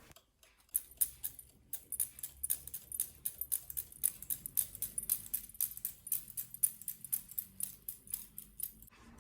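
A rapid, irregular run of small sharp clicks and ticks, several a second, starting just under a second in and going on until near the end.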